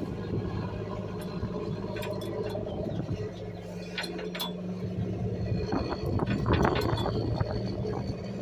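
Garbage truck engine running with a steady low hum, with scattered clinks and knocks, strongest about two-thirds of the way through.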